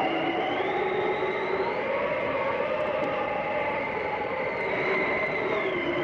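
Blizzard wind howling: a steady rush of wind with several whistling tones that slowly rise and fall over it.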